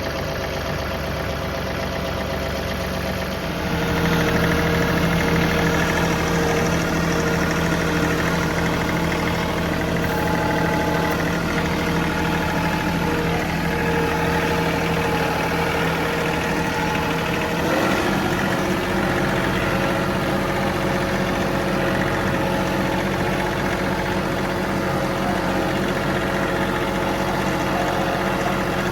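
John Deere 3038E compact tractor's three-cylinder diesel engine running just after start-up. About four seconds in it picks up to a higher, steady speed, and its note changes again about eighteen seconds in.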